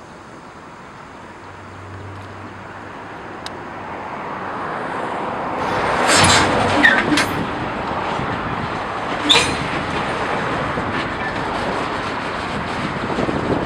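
Freight train rolling through the yard, growing steadily louder over the first six seconds. Several sharp metallic clanks and a brief high squeal come about six to seven seconds in, and another clank about nine seconds in.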